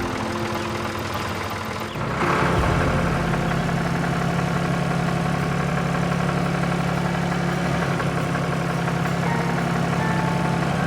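Tractor engine running steadily. About two seconds in it steps up to a louder, even drone.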